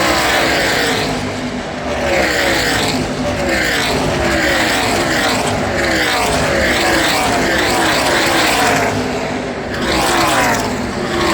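NASCAR Truck Series race trucks' V8 engines at full throttle, passing one after another. Each one's pitch falls as it goes by.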